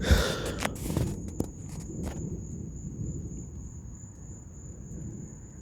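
A nearby thunderclap: a sharp crack right at the start and a few crackles over the next two seconds, then a low rumble that slowly fades.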